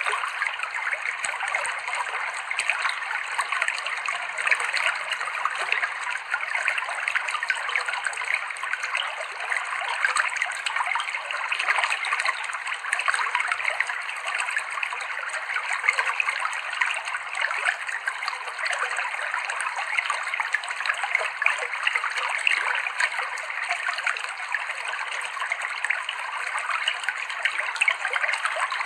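Clear, shallow river water flowing and splashing over rocks: a steady, even babble of rushing water.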